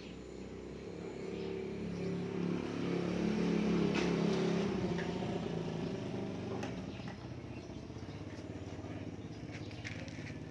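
A motor vehicle engine passing by: it swells to its loudest about four seconds in, then fades away.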